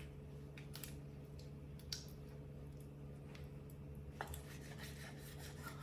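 Meat being cut: faint, scattered snips and scraping clicks, the sharpest about two and four seconds in, over a steady low hum.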